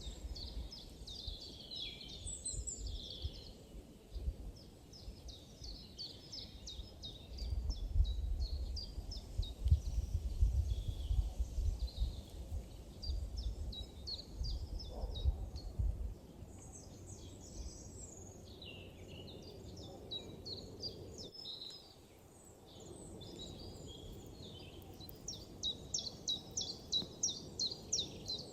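Forest ambience with small birds chirping and singing quick runs of high notes throughout, and a low rumble from about a quarter of the way in to past the middle.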